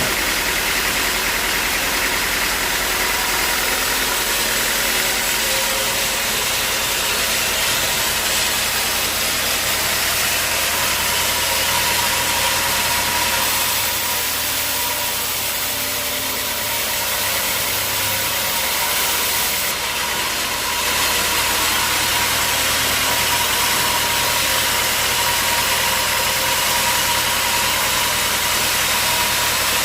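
Sawmill machinery running steadily: a motor with a constant hum and a dense hiss of sawing noise, easing off slightly for a few seconds in the middle before picking back up.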